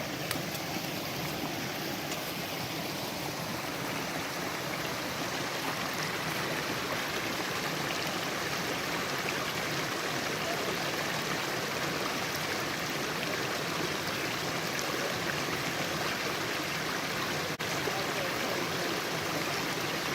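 Small forest stream flowing, a steady, even rush of running water.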